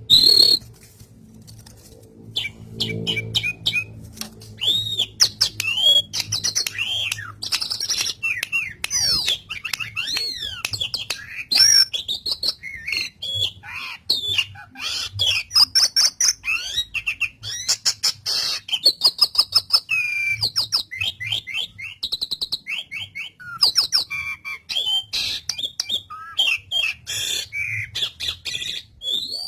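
Asian pied starling (jalak suren) singing at full song: a fast, varied stream of whistles, sweeping notes, harsh squawks and sharp chattering clicks, running almost without pause.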